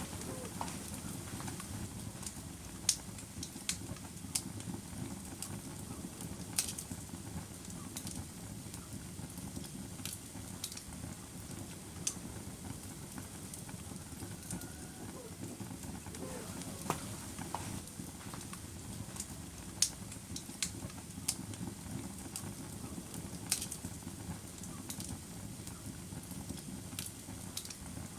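Wood fire burning with a steady low crackle, broken by sharp pops that come irregularly every second or two.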